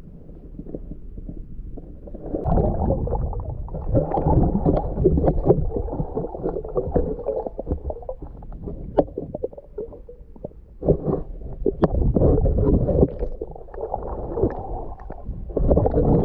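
Muffled water sloshing and gurgling around an action camera in its waterproof housing, in uneven surges with dull rumbling.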